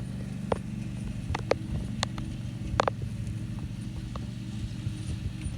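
Engine running at a steady speed, with a few scattered sharp clicks.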